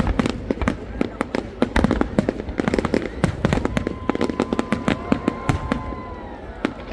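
Fireworks display: a dense run of sharp cracks and bangs from bursting shells. Through the middle a steady whistling tone holds for about two seconds and dips slightly as it ends.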